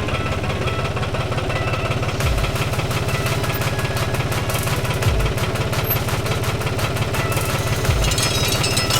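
An engine running steadily with a rapid, even pulsing, with a low thud about every three seconds.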